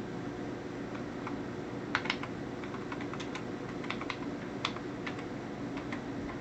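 Keys being pressed one at a time on the HP-85 computer's built-in keyboard: a handful of separate clicks starting about two seconds in, over a steady low hum.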